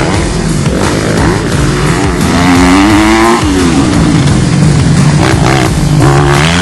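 Dirt bike engines revving up and down, the pitch rising and falling repeatedly as the bikes are ridden, with one long rise to a peak about three seconds in and then a sharp drop.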